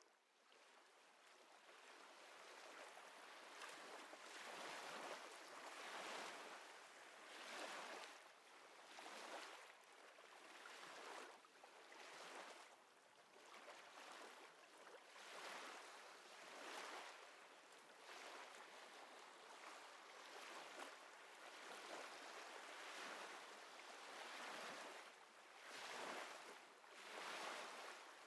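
Faint small waves lapping, a soft wash that swells and ebbs every second or two, fading in over the first few seconds.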